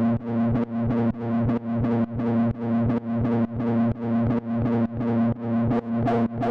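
Electronic music made with Ableton Live 10's built-in devices: a synthesizer pulsing about three to four times a second over a held pitched tone, with no kick drum. A higher synth tone comes in near the end.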